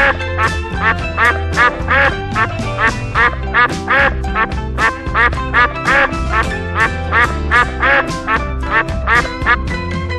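Duck quacking over and over, about three quacks a second, over background music with a steady bass.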